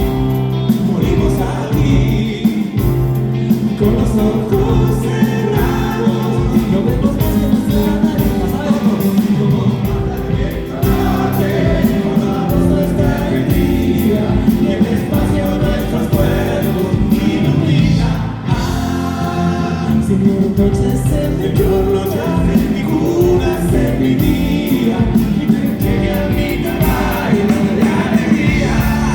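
Live progressive rock band playing a full, loud passage with voices singing together over it.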